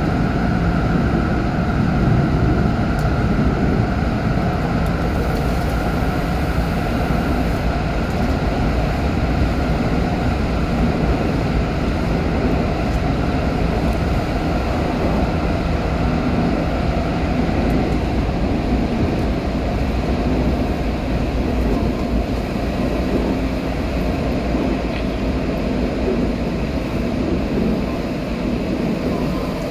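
Running noise inside an Odakyu 4000-series electric train car between subway stations: a steady rumble of wheels on rail, with a steady motor whine in several tones that fades out about two-thirds of the way through, leaving only the rumble.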